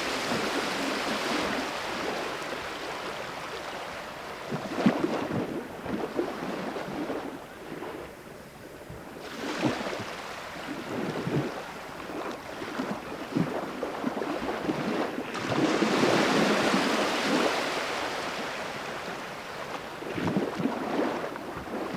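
Sea waves washing onto the shore, rising and falling in slow swells, with wind buffeting the microphone and a few short knocks.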